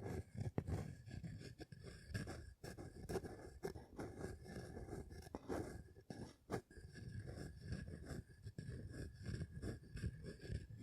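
Close-miked irregular scraping and rustling with a couple of sharp clicks, about half a second in and about six and a half seconds in.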